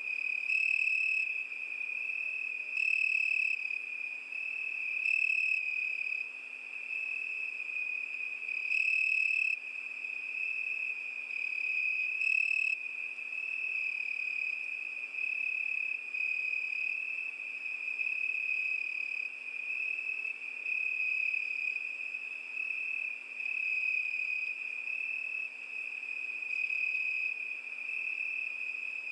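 Crickets chirping in a steady high trill, with a louder, brighter chirping coming in short bursts five or six times in the first half.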